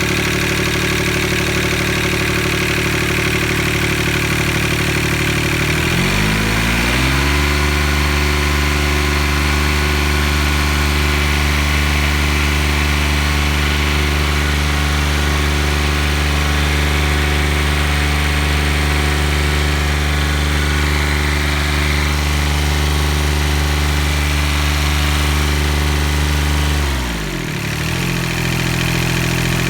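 John Deere 935's Yanmar diesel engine running. It starts at a lower speed, speeds up about six seconds in and holds steady, then drops back briefly near the end before picking up again.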